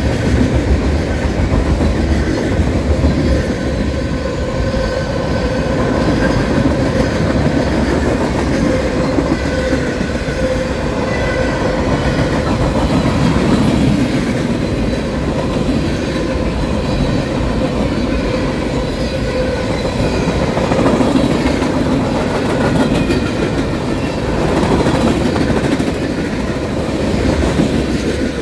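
Freight cars of a long mixed freight train rolling past close by: a steady rumble of steel wheels clacking on the rails, with a faint steady ringing tone over it.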